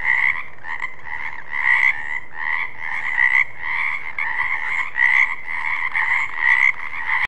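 Frogs croaking: calls overlap in a steady din that swells in repeated pulses about twice a second.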